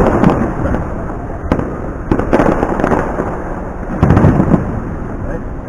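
Fireworks display: aerial shells bursting with booms and crackle in three loud volleys about two seconds apart.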